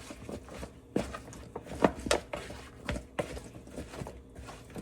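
Seasoned fries being tossed and mixed by hand in a container: irregular clattering knocks, several a second, the loudest a little under two seconds in.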